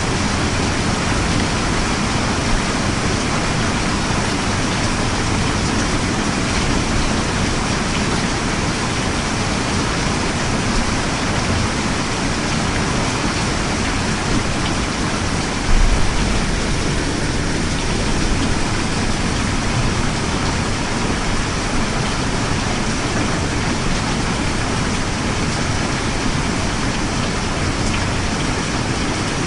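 Steady rain falling, a dense, even hiss, with one brief low rumble a little past halfway.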